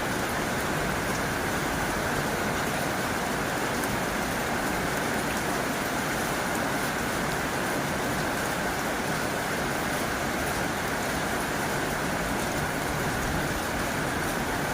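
Heavy rain drumming steadily on a tin roof, a dense even hiss with scattered faint drop ticks.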